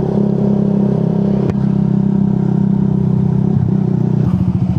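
Motorcycle engine running steadily under the rider, then its note drops and turns uneven about three and a half seconds in as the throttle is eased off. A single sharp tick about a second and a half in.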